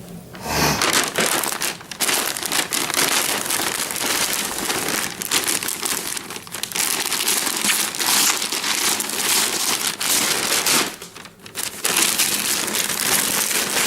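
Wrapping paper being torn and crumpled as a gift is unwrapped: continuous loud crinkling, with a brief pause a little after ten seconds in.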